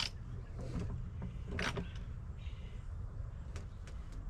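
Deck framing lumber being handled, with a brief scrape about one and a half seconds in and a fainter one a second later, over a steady low rumble.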